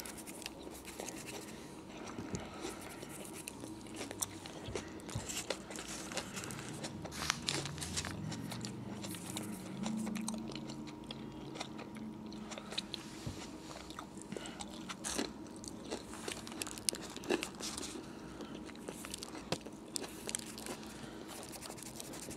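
Close-up chewing of a mouthful of roast beef sub sandwich: a steady run of wet mouth clicks and smacks, with a soft low hum about eight to thirteen seconds in.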